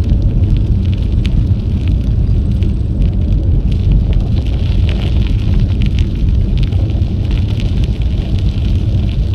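Wind rumbling steadily on the microphone of an action camera carried on a moving bicycle, with a fine crackle of tyres rolling over the trail surface.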